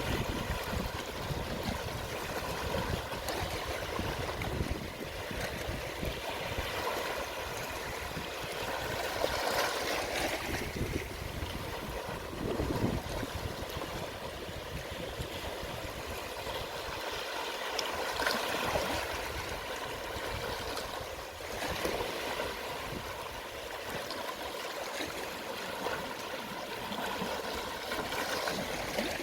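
Gentle sea waves at low tide washing in and draining back, a steady hiss of water that swells a little about every eight or nine seconds.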